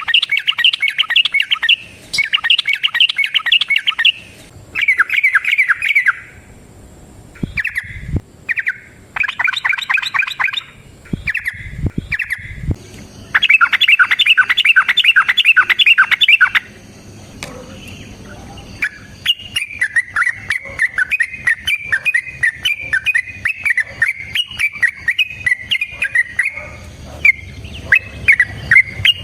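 Yellow-vented bulbul (trucukan) singing: repeated bursts of rapid, bubbly chattering notes, each a second or two long with short gaps, running into a longer unbroken chatter in the second half. This is the long 'ropel' song used to lure or train other trucukan.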